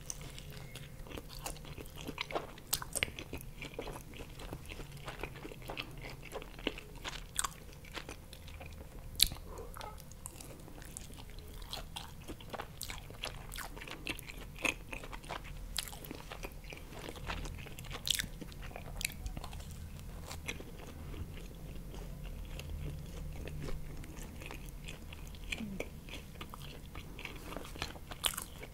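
Close-miked chewing of pizza: a bite into a slice, then steady chewing full of small sharp mouth clicks, with one louder click about nine seconds in.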